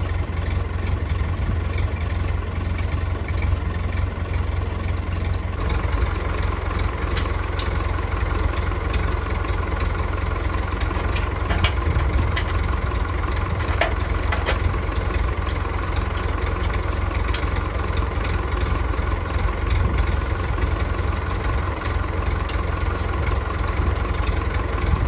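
Massey Ferguson 165 tractor engine running steadily, with a few sharp knocks along the way.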